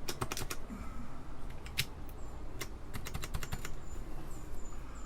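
Apple II Plus keyboard keys clicking sharply as they are pressed down, singly and in quick runs of several.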